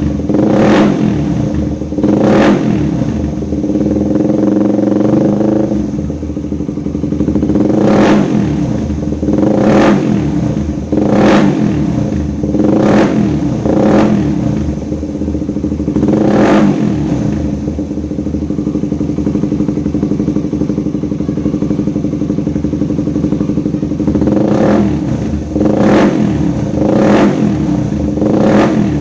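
Suzuki Satria FU's 150 cc four-stroke single-cylinder engine breathing through a Lone Rider aftermarket racing exhaust with a 30 cm trioval muffler, idling and being blipped with short, sharp throttle revs every second or two. Partway through, the revving stops for several seconds of steady idle, then the blips start again.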